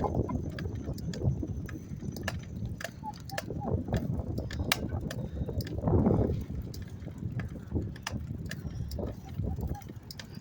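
Riding a bicycle: wind rumble on the microphone with scattered clicks and rattles from the bike, swelling louder about six seconds in.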